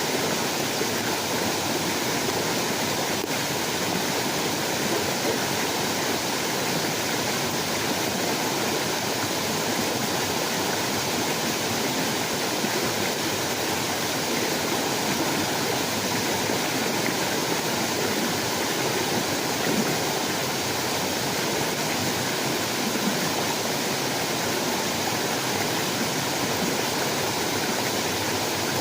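A steady, unbroken rush of water, even in level throughout.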